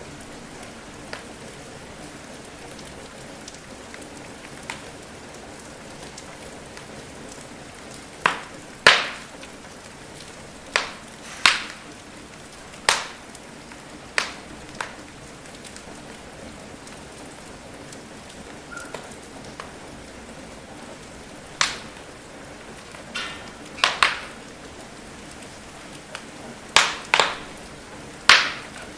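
Steady rain hiss with a wood fire crackling over it: about a dozen sharp pops, irregularly spaced, bunched in two clusters and louder than the rain.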